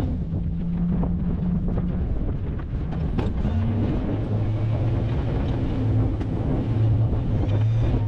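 Truck engine running at a steady low pitch, with scattered clicks and knocks.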